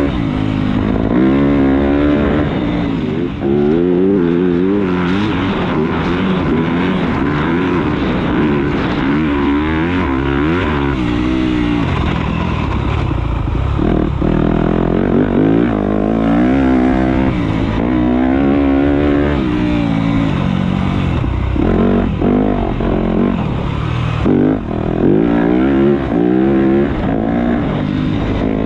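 Motocross dirt bike engine ridden hard around the track, its pitch repeatedly climbing under throttle and dropping as it shifts and backs off.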